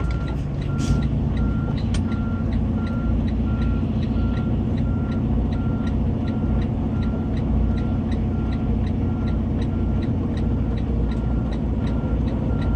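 Semi truck's diesel engine running steadily while reversing, with its backup alarm beeping in an even, steady rhythm.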